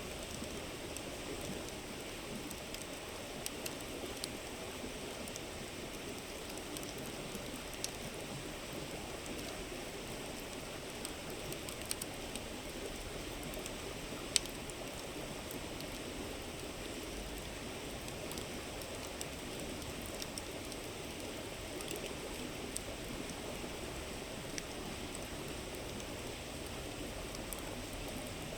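Steady rush of a flowing river, with the campfire's wood crackling in sparse, irregular pops over it; one sharper pop about halfway through.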